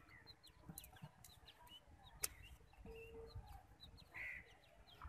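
Faint bird calls: a steady series of short, high, falling chirps, with a single sharp click a little over two seconds in.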